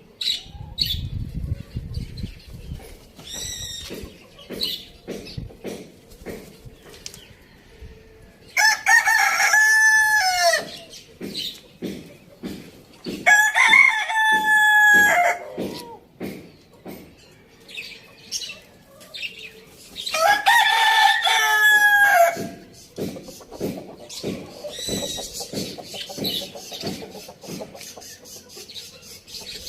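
Rooster crowing three times, each crow lasting about two seconds, with short clucking calls from chickens in between.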